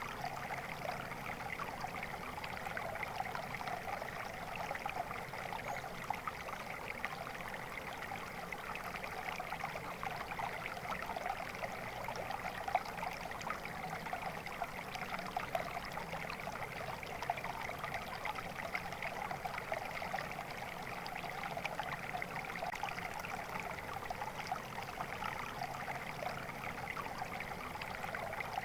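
Water flowing steadily in a stream, a continuous babbling rush.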